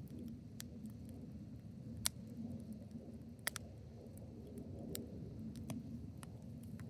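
Wood fire in a fire pit crackling: sharp, irregular pops a second or so apart, the loudest about two seconds in and a quick double pop midway, over a low steady rumble.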